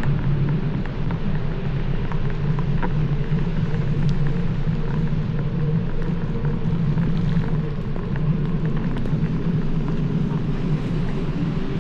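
Steady low rumble and hiss of travelling along a wet road, with scattered light ticks.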